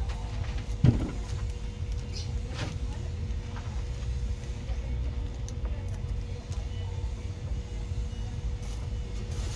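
Car engine running with a steady low rumble and a thin, steady whine over it; a sharp knock about a second in and a few lighter clicks.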